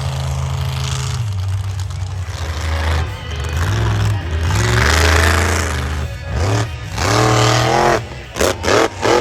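Monster truck engine revving, its pitch rising and falling, with a big rev about halfway through and several quick, sharp throttle blips near the end.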